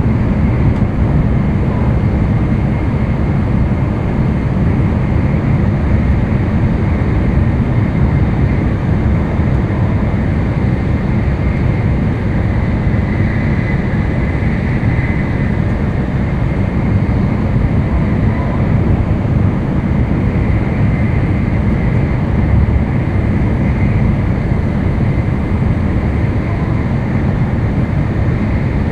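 N700-series Shinkansen running at speed, heard inside the passenger car: a steady low rumble of the train on the track with a faint high whine over it.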